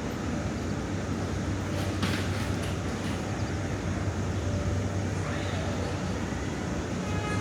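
Steady low rumble of an airport terminal's background noise, with a short hiss about two seconds in.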